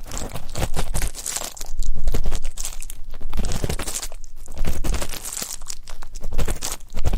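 Ear-cleaning ASMR: close-up scratching and crackly rustling of an ear pick scraping in a microphone's ear. The strokes come in waves that swell and fade every second or two.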